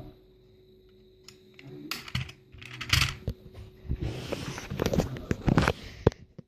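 Toy cars being handled: a run of small clicks, taps and rustles, starting about two seconds in.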